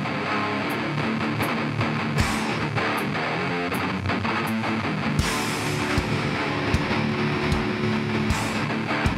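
Live hardcore band playing: distorted electric guitars over a steady drum beat, with cymbal crashes about five seconds in and again near the end. No vocals.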